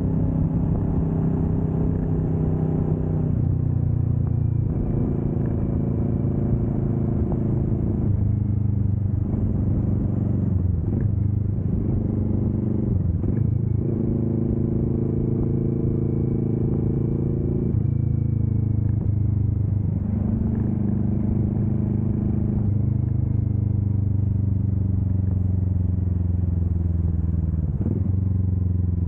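Kawasaki Vulcan S 650's parallel-twin engine running on the road. The engine note holds steady pitches, steps between them, and dips sharply a few times; through the second half it falls slowly as the bike eases off.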